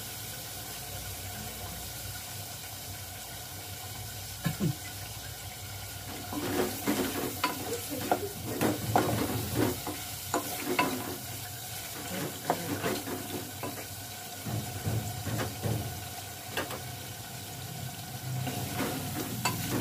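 Tomato-and-spice masala with meat sizzling as it fries in an aluminium pot. A wooden spoon scrapes and knocks against the pot in bouts, starting about six seconds in.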